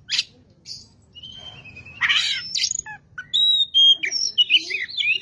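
Oriental magpie-robin (kacer) in full song: a loud, varied run of whistled notes, chirps and rising and falling glides in quick phrases, densest in the second half.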